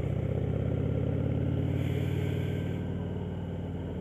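Motorcycle engine running steadily at low speed, a low rumble that eases off a little near the end.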